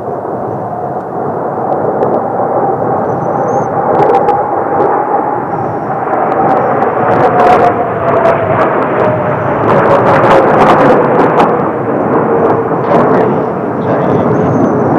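Blue Impulse Kawasaki T-4 jet trainers flying past in formation, their twin turbofans making a jet roar that swells and stays loud, with a whine falling in pitch as they go by. Scattered sharp crackles are heard over it.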